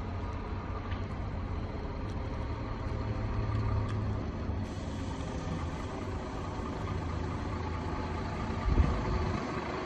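Bus engine running with a steady low rumble and road noise, with a single thump near the end.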